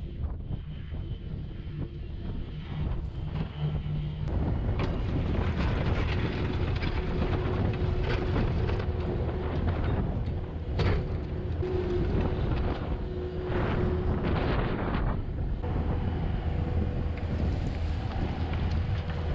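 Skid loader engine running under load while working, with bursts of clattering and scraping through the middle.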